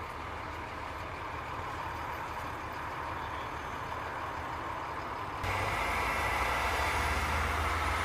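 A bus engine running steadily, heard from outside the bus. About five seconds in the sound steps up louder, with a deeper hum.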